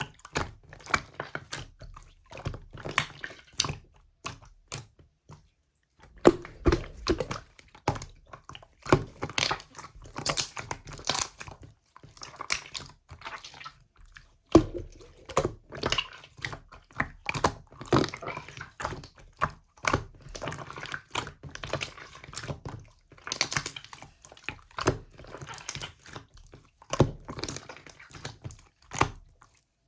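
Slime being squished, pressed and stretched by hand, giving a dense, irregular run of sticky clicks and small pops, with brief pauses twice.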